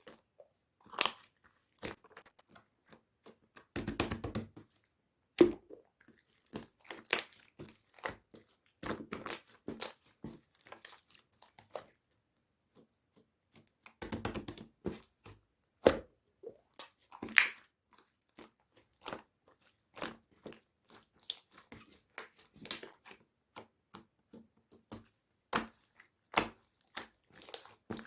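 Clear, chewy slime being squeezed, poked and stretched by hand: scattered sticky clicks and pops, with two short stretches of rapid crackling, about four seconds in and again around fourteen seconds.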